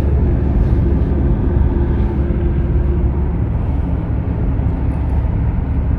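Steady low rumble of a car's road and engine noise heard from inside the cabin while driving, with a faint steady hum over it during the first few seconds.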